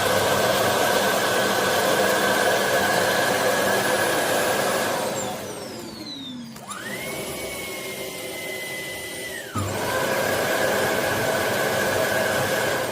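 Shark PowerDetect self-emptying base station running its emptying cycle. Its loud suction motor runs steadily, then winds down with a falling whine about five seconds in. A smaller motor whines at a steady higher pitch for about three seconds. The suction then cuts back in abruptly and starts winding down again near the end.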